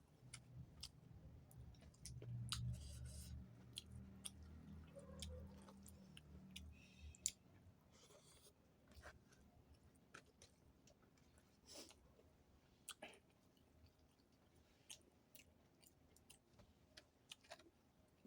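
A person chewing food close to the microphone, faint, with many short wet mouth clicks and smacks. A low hum runs between about two and seven seconds in.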